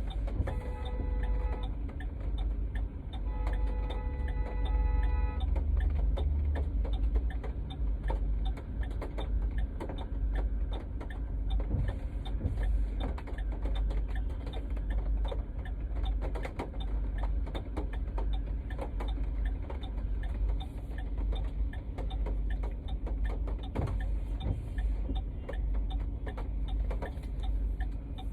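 Heavy rain drumming on a moving car as a dense, steady patter of drops, over the low rumble of the car on the road. Two long held tones sound near the start.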